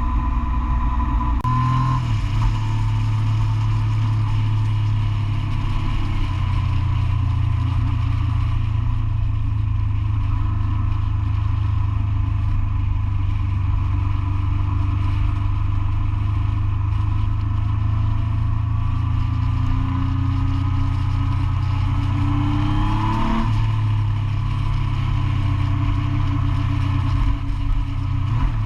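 Motorcycle engine running at steady cruising speed under a constant rush of wind noise. Its pitch rises slowly over a few seconds about two-thirds of the way in, then drops sharply at a gear change.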